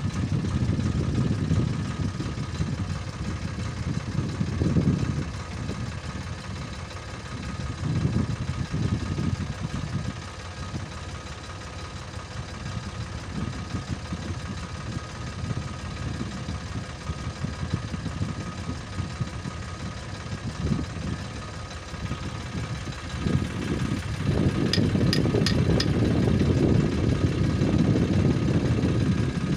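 Eicher 557 tractor's diesel engine running, its level swelling and easing several times and louder over the last six seconds. A quick run of about four high clicks comes near the end.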